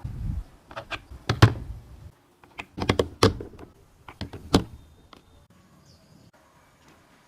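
A series of sharp knocks and clicks, about a dozen of them, over the first four and a half seconds.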